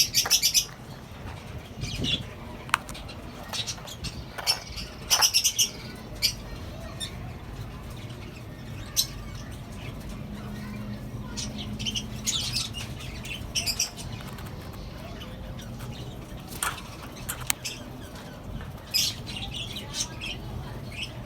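A mixed aviary colony of lovebirds, cockatiels and budgerigars chirping and squawking in short, scattered bursts, several of them loud. Wing flaps and sharp clicks are heard among the calls.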